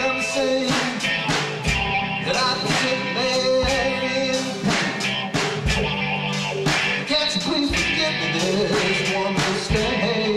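Electric guitar and drum kit playing a blues-rock song together, the guitar playing sustained lead lines over a steady beat with cymbal strikes.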